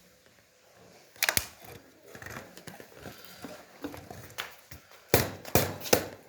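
A handful of sharp clicks and knocks: one about a second in, a few faint ones in the middle, and a louder cluster near the end.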